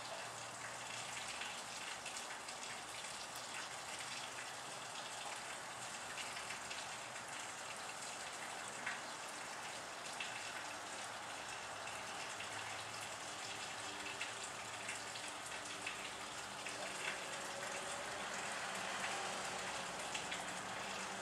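Steady rain falling, a fine hiss with scattered single drops ticking close by.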